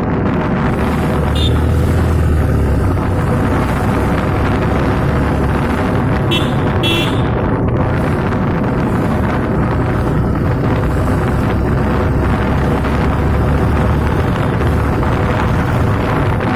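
Motorcycle running steadily while being ridden, with wind buffeting the microphone.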